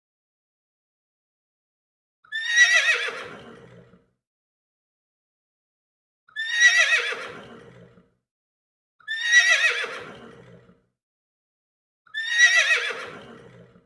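Horse whinnying: the same whinny heard four times, each call about a second and a half long, quavering and falling in pitch, with silence between them.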